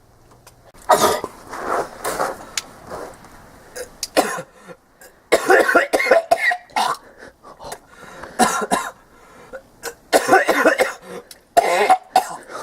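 A man retching and coughing in repeated harsh throaty heaves, vomiting up chunks after drinking a blended mix of fridge leftovers.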